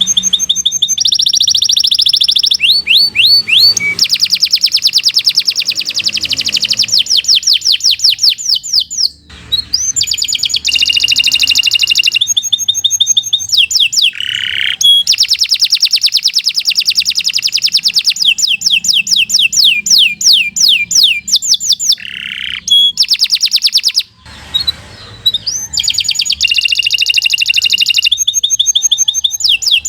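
Domestic canary singing a long, fast song of rapid trills: quick runs of repeated notes and rising-and-falling sweeps, with short breaks about nine and twenty-four seconds in.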